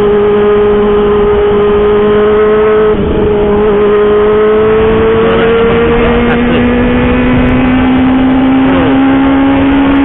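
Kawasaki ZX-25R's 250 cc inline-four running through a loud homemade aftermarket exhaust while riding, its revs holding fairly steady and slowly rising, with a brief drop about three seconds in.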